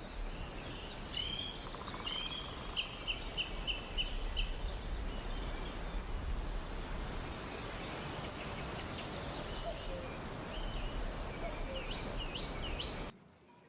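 Several songbirds chirping and singing, including a quick series of about six repeated whistled notes a couple of seconds in, over a steady rushing background noise. The sound cuts off abruptly near the end.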